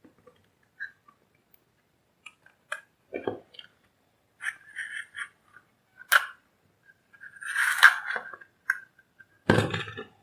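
Irregular clicks, taps and scrapes from the power supply and tools being handled on the bench, with a louder knock near the end.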